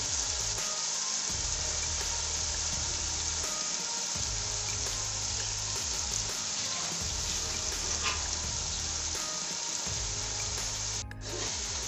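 Spiced onion-tomato masala frying in oil in a pot, a steady sizzle as it is stirred with a slotted spoon.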